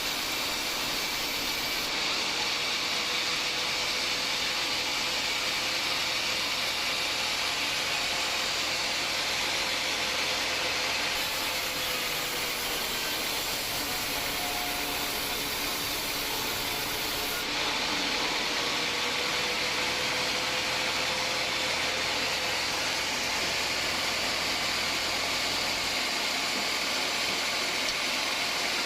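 Band sawmill cutting through a hard acacia log: a steady hiss of the blade in the wood over the running mill motor. The tone shifts abruptly a few times.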